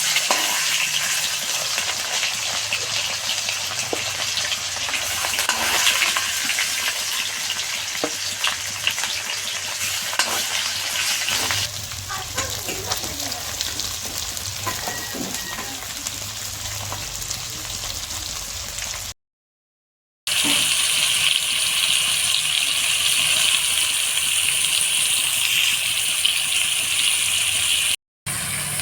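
Masala chicken leg pieces frying in hot oil, sizzling steadily with scattered clicks and knocks. The sound drops out briefly about two-thirds of the way through and comes back as a louder, hissier sizzle.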